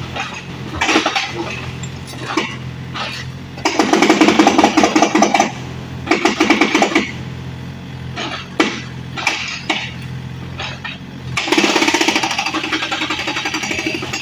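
Excavator engine running steadily, with three loud bursts of rapid hammering lasting one to two seconds each and scattered knocks between them, as the machine breaks up the house.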